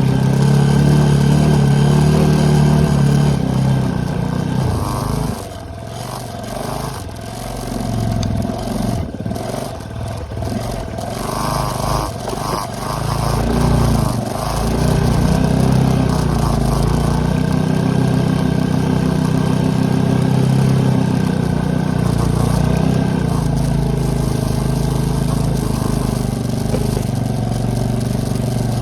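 ATV engine running under throttle, easing off about five seconds in with a few knocks and rattles, then picking back up around twelve seconds and pulling steadily again.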